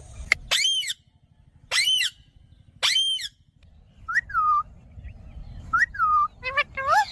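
Parrot whistling: three arched whistles that rise and fall, about a second apart, then after a short pause a few shorter calls that drop in pitch.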